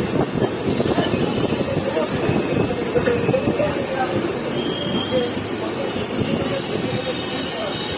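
Passenger train rolling past with a steady rattle of wheels on rail. About halfway through, a high, wavering wheel squeal starts and grows louder.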